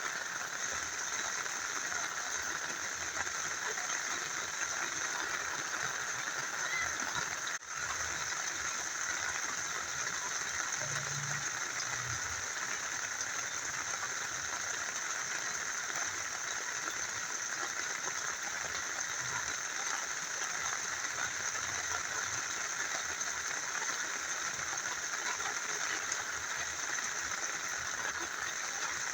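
Rain falling with a small river flowing: a steady, even rush of water. It drops out for an instant about seven and a half seconds in.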